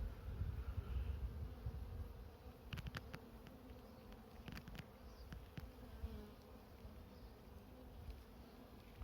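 Honey bee colony buzzing as a steady low hum over an open hive frame, with a louder low rumble in the first couple of seconds and a few faint clicks.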